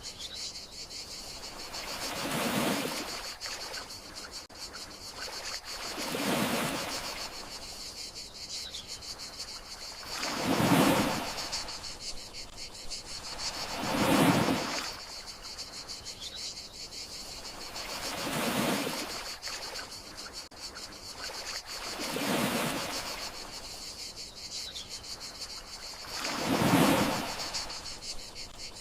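Gentle sea waves washing in and drawing back about every four seconds, each swell rising and fading, over a steady high chirring of crickets.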